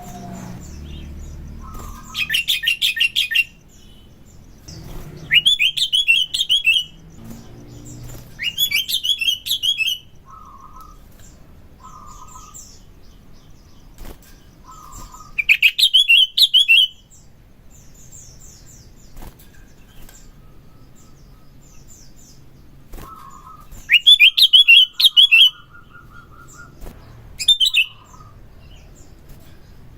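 Sooty-headed bulbul (kutilang) singing: loud bursts of rapid, high trilling chatter, each lasting one to two seconds, recurring every few seconds, with short, lower call notes in between.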